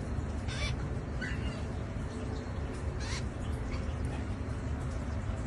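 Baby bird giving short harsh cheeping calls, two louder ones about half a second and three seconds in and a faint chirp between, over steady low background noise.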